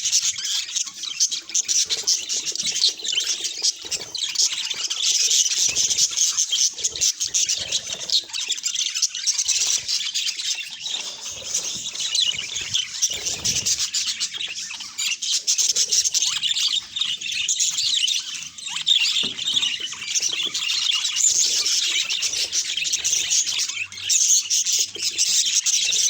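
Budgerigar chatter: rapid high chirps and warbles that run on without a break.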